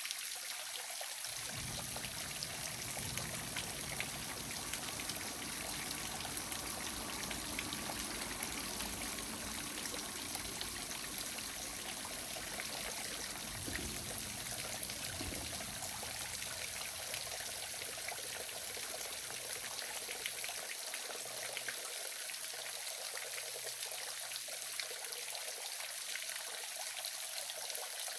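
Small waterfall splashing and trickling steadily, with a low rumble underneath for much of the first two-thirds.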